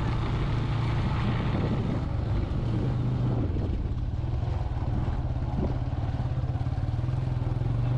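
An engine running steadily at an unchanging pitch.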